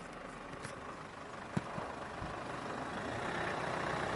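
Vehicle and road noise, a steady rumble and hiss that slowly grows louder toward the end, with a single sharp click about a second and a half in.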